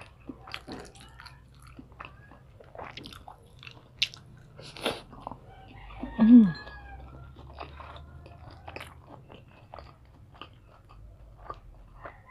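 Close-up eating sounds: biting and chewing on batter-coated quail eggs (kwek-kwek), with wet mouth clicks and smacks. About six seconds in there is a louder, short sound with a falling pitch.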